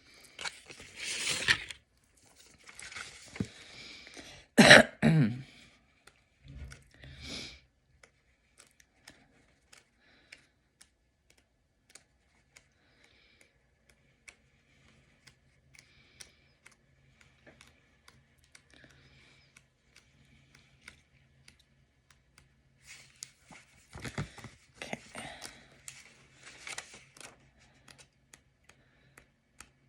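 A person coughs once, loudly, about five seconds in. Around it are soft rustling noises and scattered small clicks, with another stretch of rustling about 24 seconds in.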